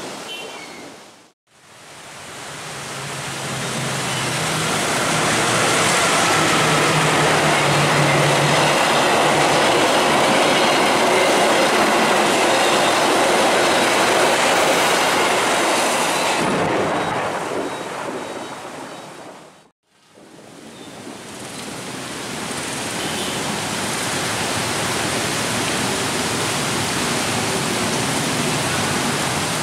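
Indonesian locomotive-hauled passenger trains passing at speed in heavy rain: a loud steady rush of wheels and air mixed with rain noise. The sound fades out completely twice, about a second in and near twenty seconds in, between separate train passes.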